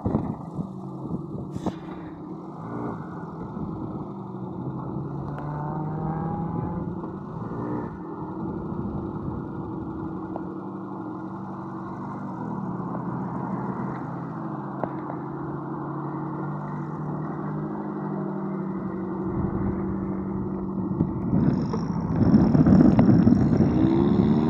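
Suzuki Samurai engine running steadily, then revved harder near the end, its pitch rising.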